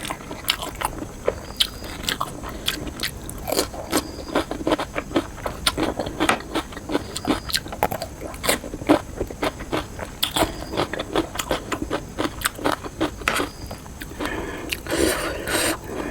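Close-miked eating sounds: a person chewing and biting food, with many quick, irregular wet clicks and smacks of the mouth, and a longer, denser stretch near the end.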